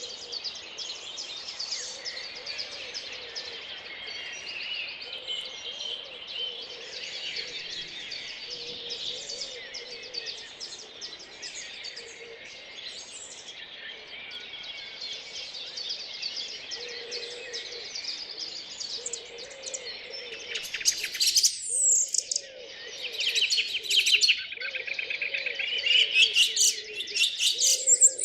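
Early-morning dawn chorus of many songbirds singing at once, with a low repeated call running underneath. From about twenty seconds in, a nearby bird sings louder in fast trills.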